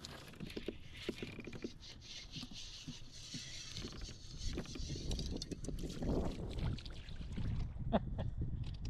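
Water splashing and sloshing around a fishing kayak, with scattered knocks and clicks against the hull.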